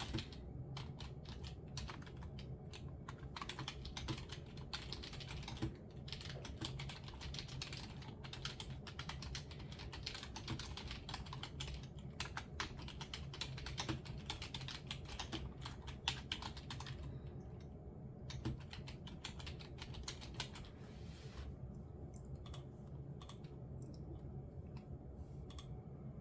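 Quiet typing on a computer keyboard: a fast, continuous run of keystrokes that thins out about two thirds of the way through into scattered taps with short pauses.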